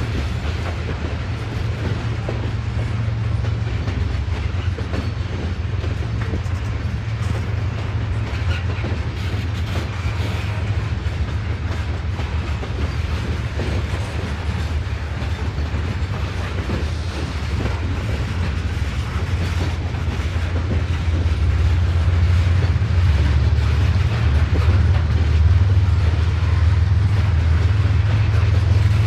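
Freight train rolling past, its railcar wheels clicking over the rails over a steady low rumble that grows louder past the two-thirds mark.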